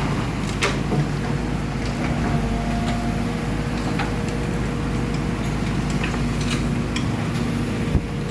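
A steady low mechanical drone with scattered light clicks and taps, and a faint held tone through the middle few seconds.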